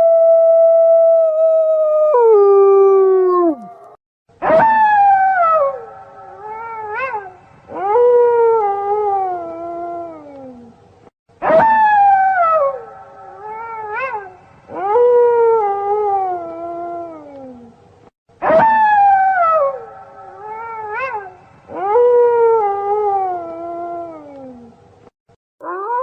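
Wolves howling, long drawn-out howls that slide down in pitch, overlapping, with short yelps between. First comes one long level howl that drops off near the end of its run. After that, the same sequence of howls repeats about every seven seconds, three times, as a loop.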